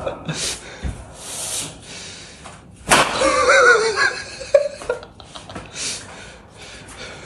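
A person's voice cries out once, starting sharply about three seconds in and lasting about a second and a half, amid short bursts of noise.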